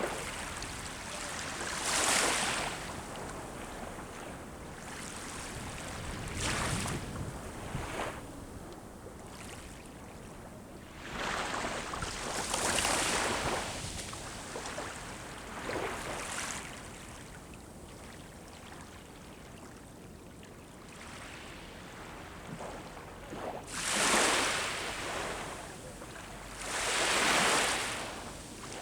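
Ocean waves breaking and washing up on the shore, each surge of surf swelling and fading every few seconds over a steady wash, the two loudest near the end.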